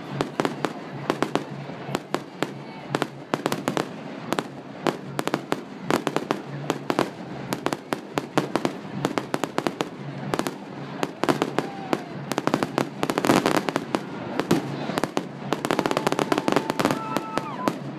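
Aerial fireworks display: shells bursting overhead in a fast, continuous run of bangs and crackling, growing denser in a heavy volley about two-thirds of the way through.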